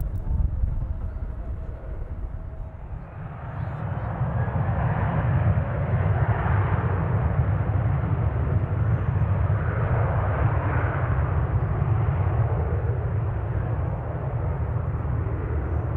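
Jet airliner passing, its engines a rushing roar that builds from about three seconds in and stays loud, swelling twice, over a steady low rumble.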